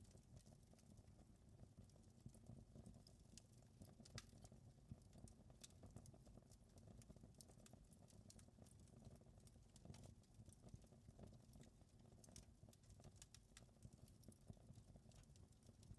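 Wood fire crackling faintly: irregular small pops and snaps, several a second, over a steady low background noise.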